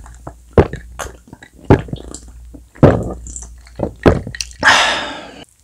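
Close-miked chewing of sauce-glazed fried chicken: sharp crunchy bites and sticky, wet squelches every half second or so. A longer, noisier crunch comes near the end, then the sound cuts off suddenly.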